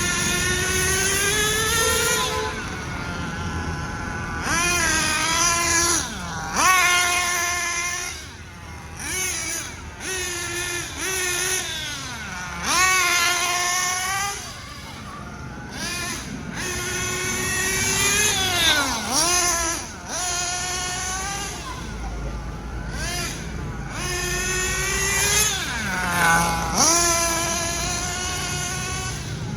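Nitro engine of a Hobao Hyper VS RC buggy running on the throttle, its high-pitched note climbing and falling, dropping sharply and picking up again about four times, as in break-in running.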